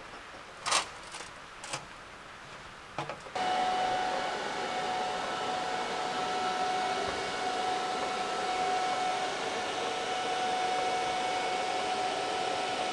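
A few light clicks and knocks, then about three seconds in a steady hissing buzz with a thin whine starts abruptly and holds even: welding on a stainless steel exhaust pipe.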